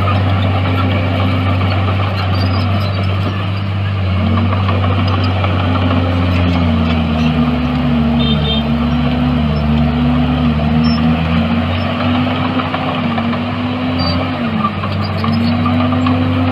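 Heavy-equipment diesel engines running steadily with a deep hum; one engine's pitch repeatedly dips and recovers from about four seconds in, with a second engine tone joining for a few seconds in the middle.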